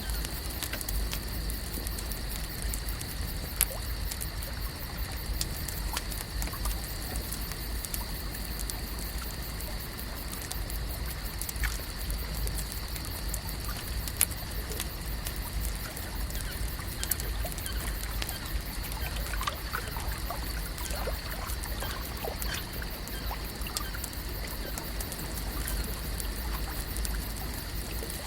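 Lakeside nature ambience: a steady bed of trickling, lapping water with a constant high-pitched hum over it, scattered small clicks, and a few short chirps about two-thirds of the way through.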